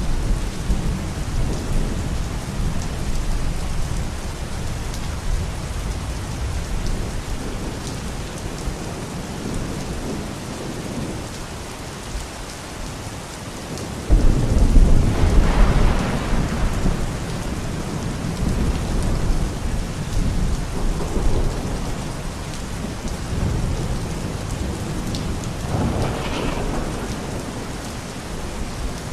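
Steady rain with thunder: a loud roll of thunder breaks in suddenly about halfway through and rumbles for a few seconds, and a smaller roll follows near the end.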